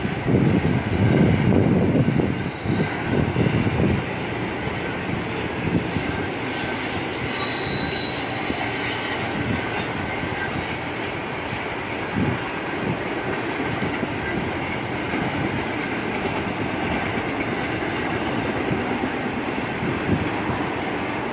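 Intermodal freight train cars rolling past on the rails: a steady rumble that is loudest in the first few seconds, with a few brief high-pitched wheel squeals.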